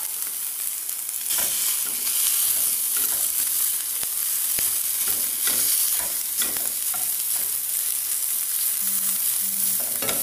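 Cold cooked rice and mixed vegetables sizzling in a hot pan while a spatula breaks up and stirs the rice, with repeated scraping strokes against the pan over a steady hiss.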